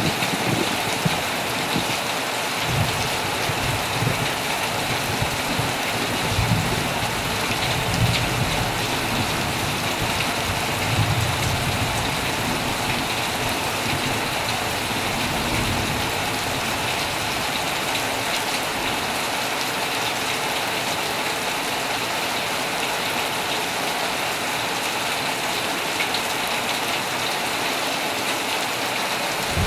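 Heavy rain falling steadily on an old tent, a dense and even patter. Low rumbles swell and fade several times in the first half, then die away.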